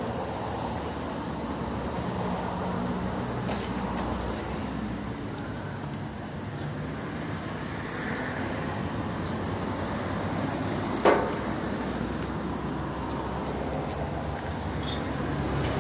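Insects chirping steadily in the background, with a single sharp knock about eleven seconds in.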